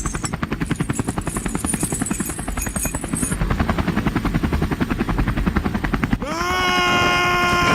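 A small engine chugging rapidly and evenly. About six seconds in, a long, steady horn-like tone with a quick rising start comes in over it.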